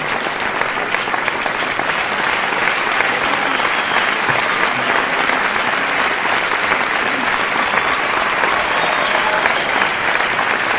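Crowd applause: many hands clapping at a steady level, a dense, even patter of claps.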